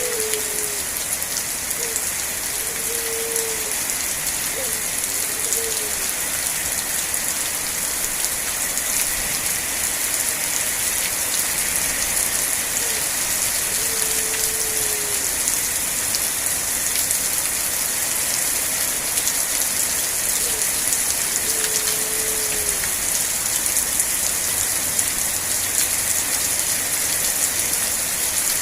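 Steady rain falling in an even, dense hiss. A short low tone that dips slightly in pitch sounds a few times in the first half.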